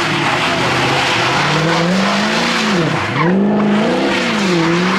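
Car engine revving up and down under hard throttle while its tires squeal and spin. The revs drop sharply about three seconds in and climb again.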